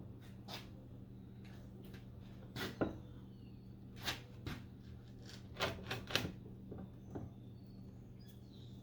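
Light, irregularly spaced clicks and knocks, about a dozen, over a steady low hum, with faint bird chirps in the background.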